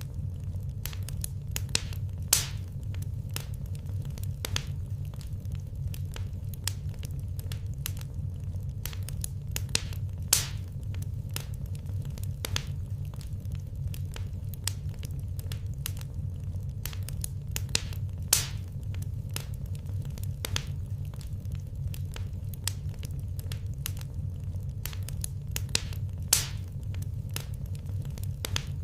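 Wood fire crackling in a fireplace: a continuous scatter of small crackles over a steady low rumble, with four louder pops about eight seconds apart.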